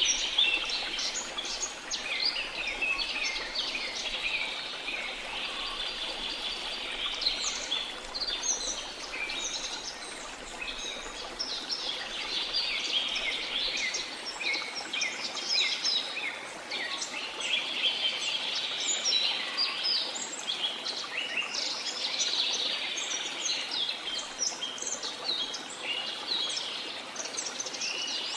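A dense chorus of many birds chirping and singing, short calls and trills overlapping without a break, over a faint steady hiss.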